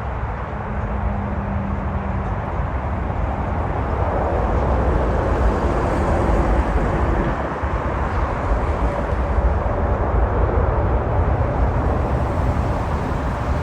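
Boeing 777 jet engines, loud and close, as the airliner lands; the noise swells about four seconds in and stays strong.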